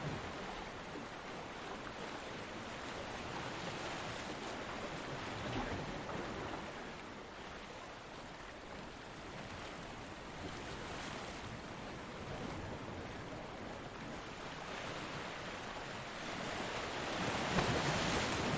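Ocean surf breaking and washing ashore: a steady rush of waves that eases off after the start and swells again as another wave breaks near the end.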